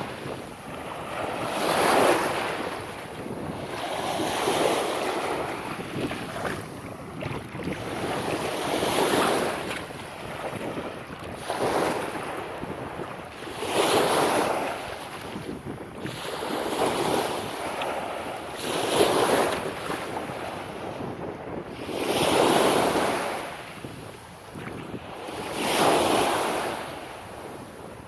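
Small waves breaking and washing up a sandy beach, the wash swelling and fading every few seconds, with wind buffeting the microphone.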